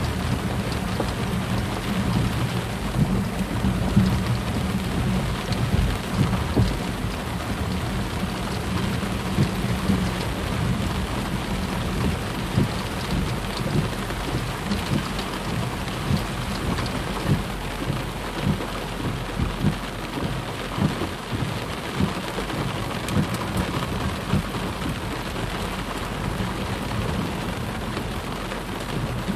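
Heavy mountain rain pouring down steadily in a thunderstorm, a dense patter of drops over a low rumble that is strongest in the first ten seconds or so.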